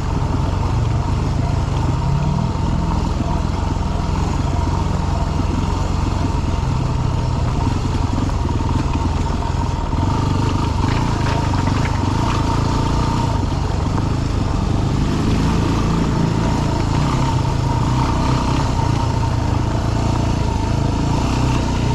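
Dirt bike engine working at low speed up a rocky trail, its revs rising and falling as the throttle is worked over boulders.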